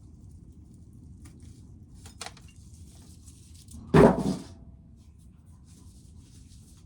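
A single loud knock about four seconds in, with a brief ringing tone after it, over a steady low rumble.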